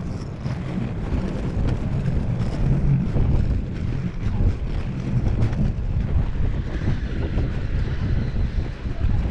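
Steady low rumble of wind buffeting the microphone and inline skate wheels rolling over pavement, with many small knocks. A faint high whine joins about seven seconds in.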